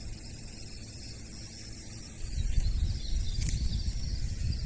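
Steady high-pitched insect chorus of crickets in the garden. From about halfway, a low rumble on the microphone grows louder, and there is one faint click.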